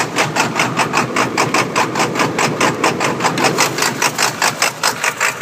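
1999 Ford F-250's 7.3-litre Power Stroke V8 turbo-diesel idling rough, pulsing in an even lope several times a second. The miss is suspected to come from a burnt valve cover gasket wiring harness sending the signal to the wrong injector.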